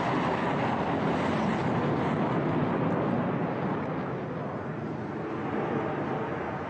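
Jet noise from an HAL Tejas fighter's single General Electric F404 turbofan as the aircraft flies its display. It is a steady rushing sound that eases off somewhat in the second half.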